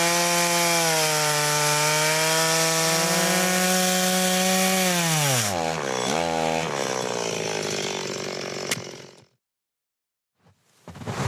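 Chainsaw running under load as it cuts wood. The engine pitch sags sharply about five seconds in as the chain bites, picks up briefly, then winds down and cuts off abruptly after about nine seconds. A few sharp knocks follow near the end.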